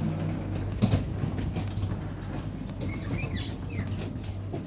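Train carriage interior: a steady low hum with scattered small clicks and knocks, and a few faint short squeaks about three seconds in.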